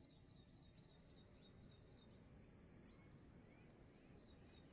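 Faint outdoor ambience: quick high chirps repeat about four times a second over a steady high hum, stop about halfway through and resume near the end.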